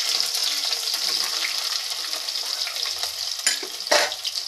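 Sliced onion, green chilli and whole spices sizzling in hot oil in an aluminium pot while a steel ladle stirs them. The sizzle fades gradually, and two sharp knocks come near the end.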